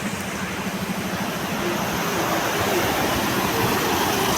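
Steady rush of falling and tumbling water from a waterfall.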